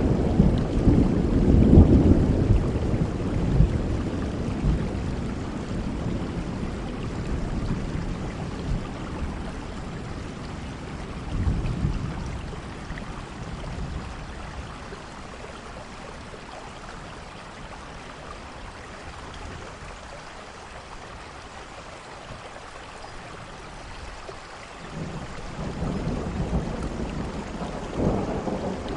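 Heavy rain falling steadily with rolling thunder: a deep rumble dies away over the first few seconds, a short rumble comes about a third of the way in, and another roll builds near the end.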